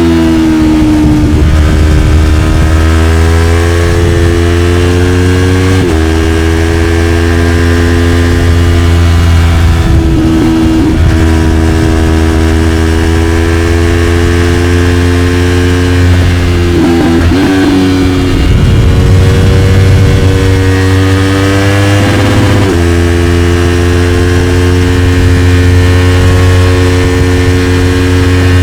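Yamaha YZF-R3's 321 cc parallel-twin engine through an Arrow Pro-Race slip-on exhaust, under hard acceleration: the revs climb steadily and change abruptly at gear changes about four times, with quickshifted shifts.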